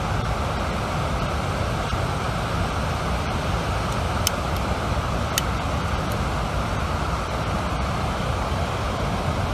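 River water rushing steadily, with two sharp clicks about four and five seconds in.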